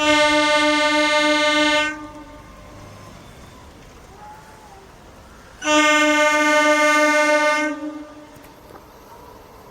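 Train air horn sounding two long, steady blasts of about two seconds each, the second starting about five and a half seconds after the first.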